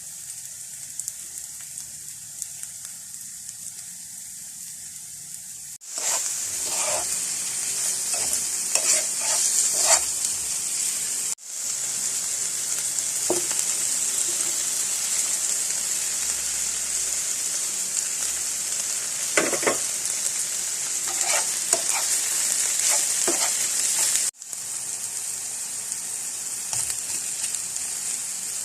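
Food sizzling in a hot pan while being stir-fried, a steady high hiss with occasional short knocks and scrapes of a utensil against the pan. The sizzle is quieter for the first six seconds, then louder, and breaks off abruptly a few times.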